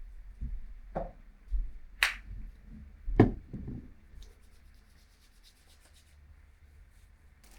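Handling noises: several soft knocks and rubbing as things are picked up and moved, the loudest knock about three seconds in, then only faint light ticking.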